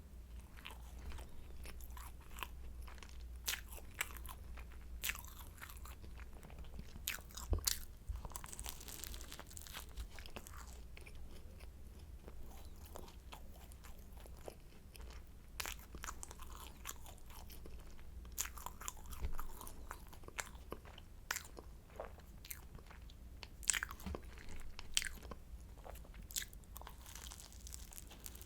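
Croissant being bitten and chewed, its flaky pastry crunching and crackling in irregular sharp crackles between quieter chewing.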